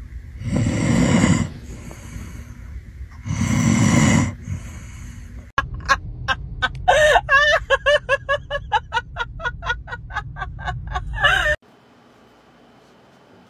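Sleeping pit bull-type dog snoring, two long loud snores. After a cut comes a fast run of short pitched calls, about four or five a second, that stops abruptly near the end.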